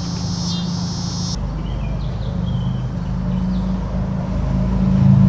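An engine or motor runs with a steady low hum and gets louder near the end. Insects chirr for the first second or so, then stop abruptly.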